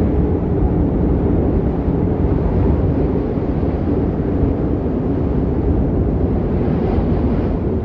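Storm wind buffeting the microphone: a loud, steady low rumble with no breaks.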